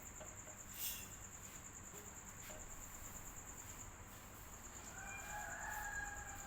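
Crickets trilling steadily in a thin, rapidly pulsing high tone over a faint low hiss, with a sharp click about a second in and a faint drawn-out tone near the end.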